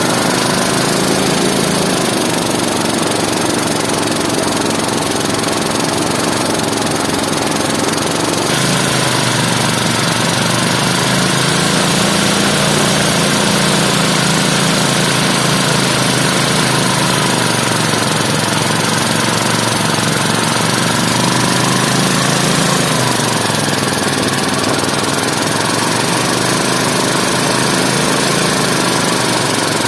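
Engine of harvest machinery running continuously, its speed sagging and recovering several times as if under changing load, with a sudden change in tone about eight seconds in.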